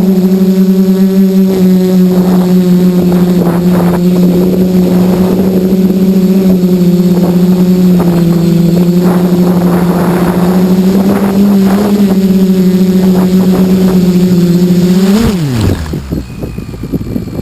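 FPV quadcopter's electric motors and propellers buzzing at a steady pitch. About 15 seconds in the pitch jumps briefly, then falls away fast as the motors spool down and stop, leaving a quieter rushing noise.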